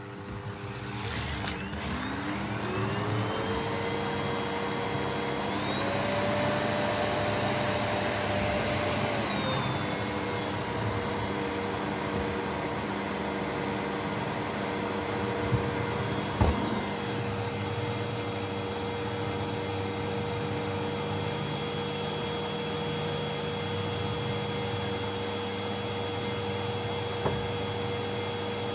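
Vacuum cleaner motor spinning up with a rising whine, then running steadily. Its pitch steps up about five seconds in and drops back a few seconds later. A few short knocks come midway and near the end.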